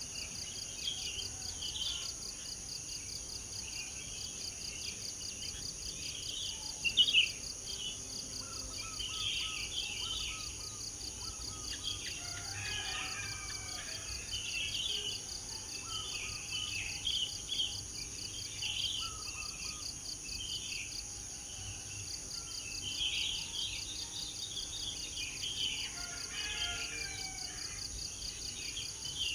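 Several birds chirping and calling in short, scattered phrases over a steady, high-pitched, pulsing insect chorus. There is one brief louder sound about seven seconds in.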